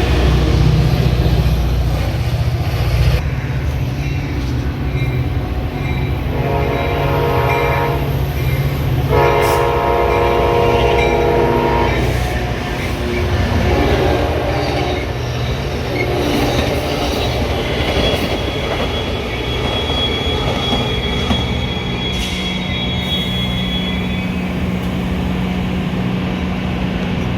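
Diesel train horn sounding two long blasts, the first about two seconds and the second about three, over the steady low rumble of a train at a station. A thin high squeal follows later.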